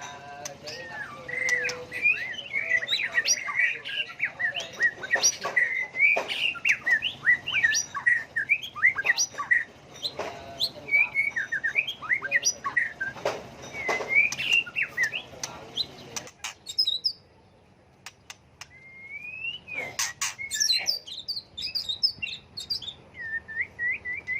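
White-rumped shama singing a varied song of quick, constantly changing whistled phrases, with sharp clicks among them. The song stops for about two seconds about two-thirds of the way through, then starts again.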